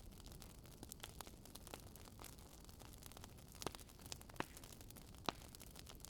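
Campfire burning with irregular crackles and sharp pops over a faint low rumble; the strongest pops come in the second half.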